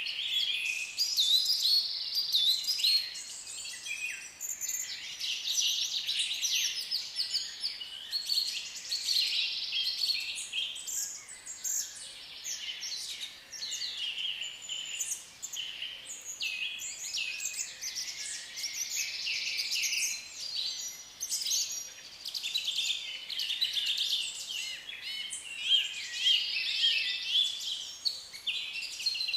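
African lovebirds chattering, with overlapping high chirps and squeaks that run on without a break.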